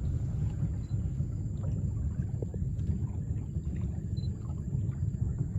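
A river cruise boat under way: a steady low rumble of its motor and the moving water.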